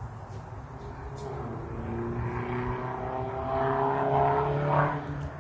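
Four-stroke mini bike engine pulling under throttle, its pitch climbing steadily as it accelerates and growing louder, then easing off just before the end.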